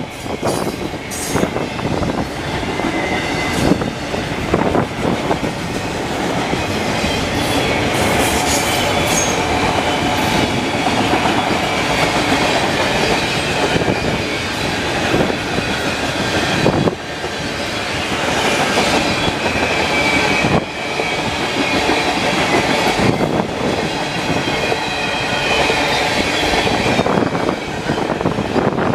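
Freight cars rolling past on steel wheels, with a steady rumble and wheels clacking over rail joints, and a high wheel squeal at times. Strong wind buffets the microphone.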